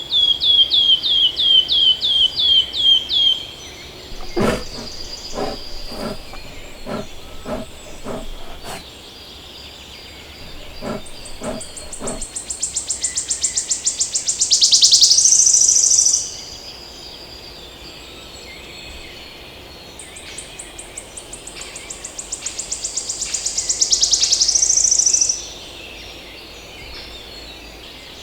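Songbirds singing: a quick run of about ten high down-slurred notes, then two high trills that speed up and grow louder before stopping abruptly. Between them comes a string of a dozen or so sharp, unevenly spaced knocks.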